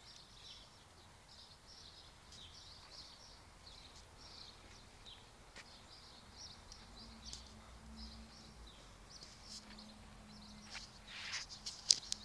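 Small birds chirping, many short high notes through the whole stretch. Near the end there is a brief rustle and then a single sharp click.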